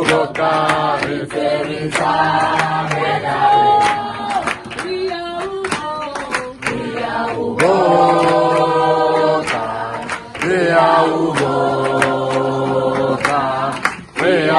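A group of people singing together, a chant-like song with long held notes, with many sharp short hits throughout; it cuts off abruptly at the end.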